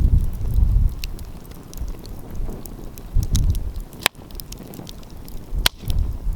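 Wood fire crackling, with scattered small snaps and two sharp, loud pops about four and five and a half seconds in. Gusts of wind rumble on the microphone in waves.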